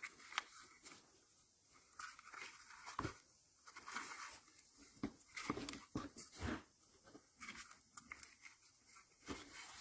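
Faint, scattered clicks and scrapes of small hand work on plastic electrical connectors, with a few sharper clicks now and then.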